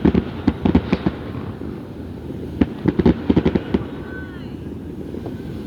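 Fireworks display: rapid bangs and crackles in two clusters, one at the start and another from about two and a half seconds in.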